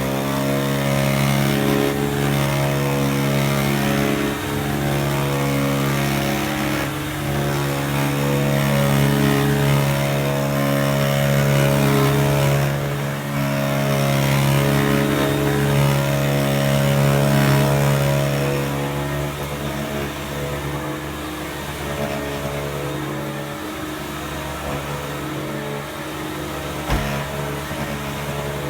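1979 Electrolux 504 upright vacuum cleaner running: a steady motor hum and whine with an airy rush, a little quieter in the last third. There is a single short knock near the end.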